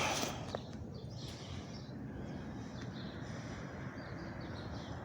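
Faint, steady low rumble of background noise, with no distinct single event standing out.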